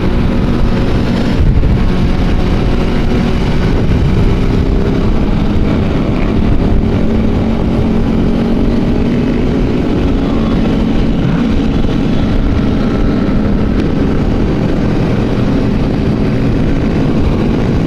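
Motorcycles riding together at a steady speed, their engines running in a steady, unbroken drone.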